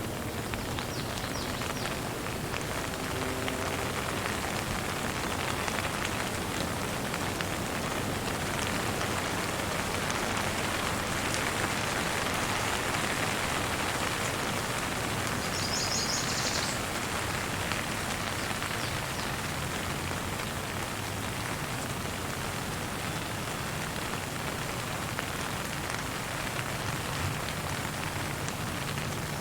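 Steady gentle rain falling, an even hiss of drops, with a brief high bird chirp a little past halfway.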